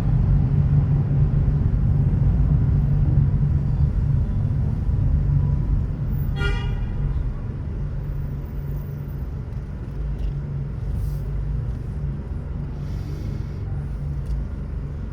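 Steady low road and engine rumble of a car driving through city traffic, with one short car-horn toot about six seconds in.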